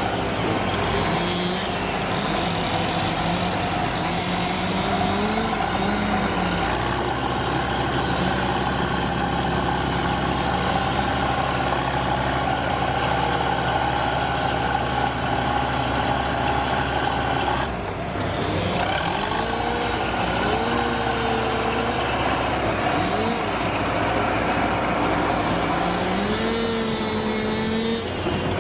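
Heavy vehicle engines running, steady for a while, then their speed rising and falling again and again as they are revved, with a brief break about eighteen seconds in.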